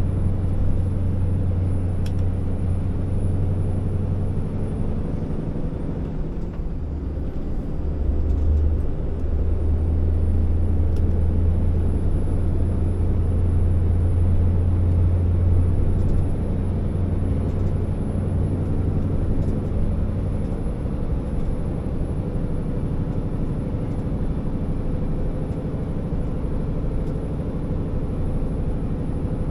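Scania R650 timber truck's V8 diesel running under load, a steady low drone. It dips briefly about six seconds in, then comes back stronger for a while before easing off again.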